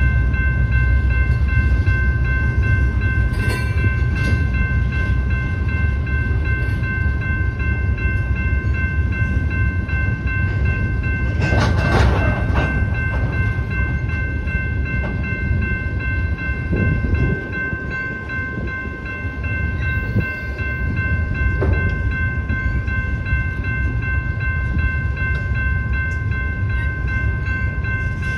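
Train rolling past: a steady low rumble of railcars on the track, with steady high-pitched tones over it throughout and a brief louder burst of noise about twelve seconds in.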